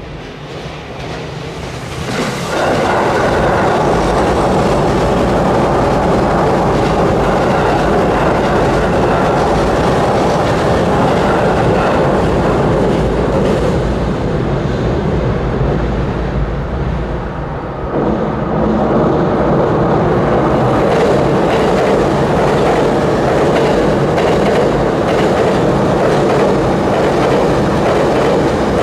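E233-series electric commuter train crossing a steel girder railway bridge: a steady rumble of wheels on the bridge with clickety-clack from the rail joints. The sound rises about two seconds in, dips briefly a little past halfway, then swells again as the train draws close.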